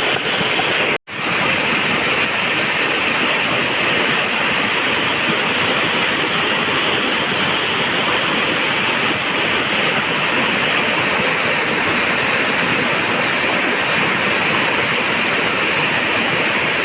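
Flash-flooded mountain stream (gadhera) rushing, a loud, steady wash of torrential water; the sound cuts out for an instant about a second in.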